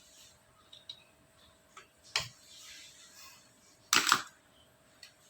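A few sharp clicks and knocks with soft rustling between them, the loudest a quick cluster of clicks about four seconds in, over a faint steady hum.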